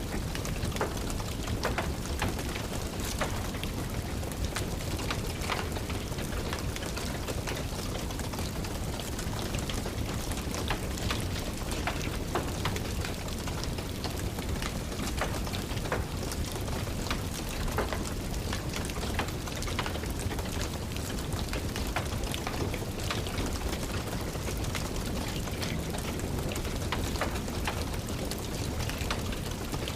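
Steady rain with a wood fire crackling, many small sharp pops scattered over an even hiss.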